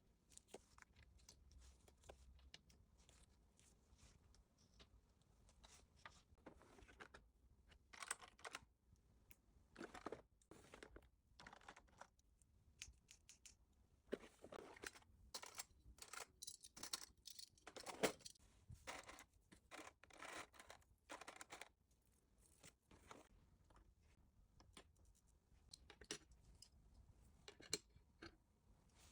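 Quiet, irregular rustling and crinkling of packaging being handled, with short tearing and snipping sounds, busiest through the middle.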